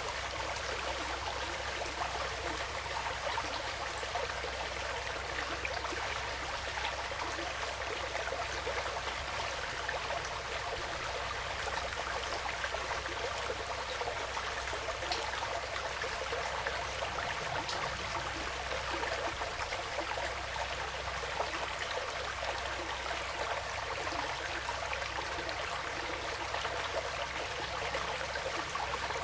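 Small woodland stream flowing and trickling, a steady, even rush of water with no breaks.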